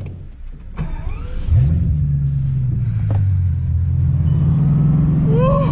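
Bugatti Chiron Sport's quad-turbo W16 engine heard from inside the cabin, picking up revs about a second and a half in and then pulling steadily. A short vocal sound comes near the end.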